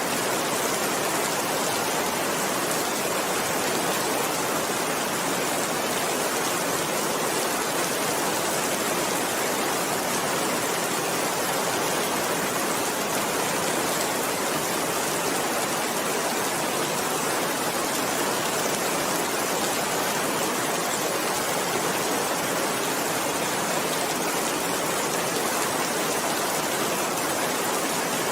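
Steady rain falling, a constant even hiss with no distinct drops or thunder standing out.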